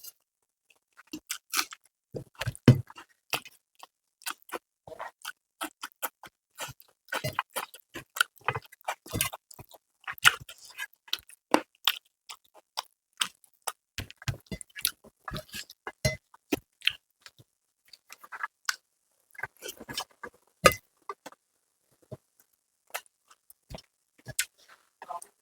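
Close-miked eating: chewing, with irregular sharp wet clicks and lip smacks, of a meal of rice with spicy chicken curry.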